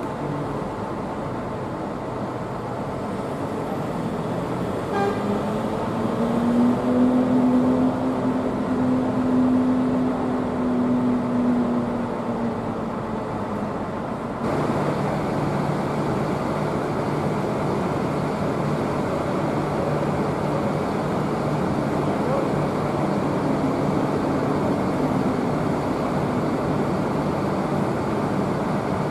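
Bus engines running against a steady wash of traffic noise. One engine's pitched drone swells and fades over about six seconds, as a bus moves past. Then a sudden change leaves a steady low engine hum.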